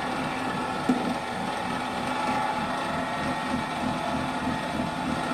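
1968 NS12 bench drill press, its motor driven by a frequency inverter, running steadily at top speed and vibrating, which the owner puts down to belt pulleys that were not trued properly. A single knock about a second in.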